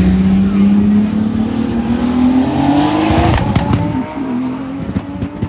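Race car accelerating hard, its engine note climbing steadily in pitch. About three seconds in, the note drops sharply and the sound fades away.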